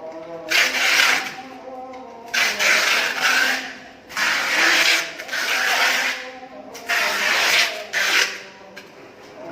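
About five rasping, rubbing strokes in a row, each lasting roughly a second, with short pauses between them.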